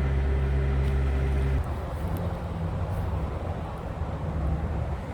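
Steady engine drone with a low hum. About a second and a half in it changes abruptly to a rougher, noisier drone.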